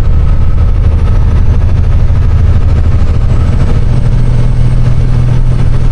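Western Star semi-truck's diesel engine pulling in ninth gear, heard from inside the cab, with a steady drone and road noise. The engine note rises about four seconds in as the revs climb toward the next shift.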